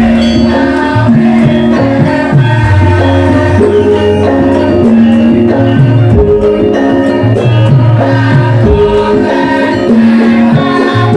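Live Javanese gamelan music for a lengger mask dance: layered struck metallophone notes over a steady drum beat.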